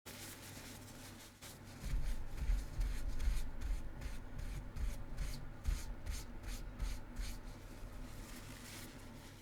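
Tattoo machine buzzing steadily while lining on practice skin, with rubbing and scraping from about two seconds in as the needle and hand work across the surface.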